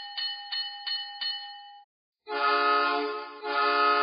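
Recorded model-train locomotive sound effects: a locomotive bell rings about five quick strikes, then after a short gap a chime whistle or horn sounds a loud held chord, dipping briefly partway through before sounding again.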